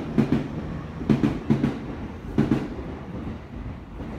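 Train wheels clattering over rail joints, knocks coming in quick pairs and groups, then dying away into a low rumble after about three seconds.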